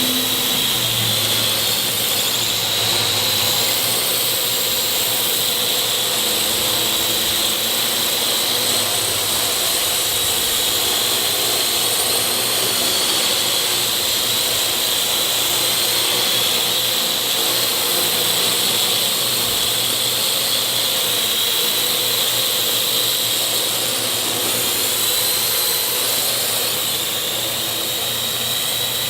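Parrot quadcopter drone's electric motors and propellers whining steadily in flight: a high whine over a lower hum, drifting slightly in pitch as the rotor speeds change.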